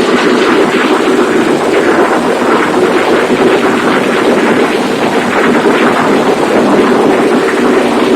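A 100 kWe diesel engine converted to spark ignition, running steadily under its own power on wood gas. It is loud and even, with a fast, unbroken firing rhythm.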